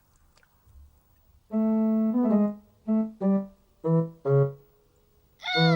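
Short synth-keyboard music cue: after a quiet start, one held note and several short notes stepping lower, ending on a note that slides down in pitch.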